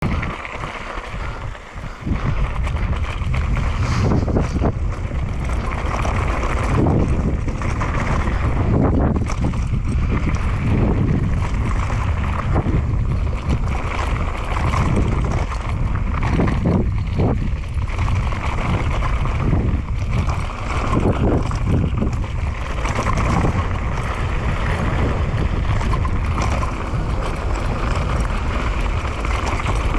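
Mountain bike riding down a rough dirt trail, starting about two seconds in: wind buffets the microphone, the tyres rumble, and the bike rattles and knocks over bumps.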